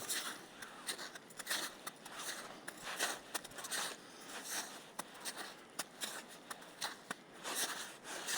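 Footsteps crunching over the forest floor at a walking pace, with sharp little cracks like twigs or dry leaves breaking underfoot.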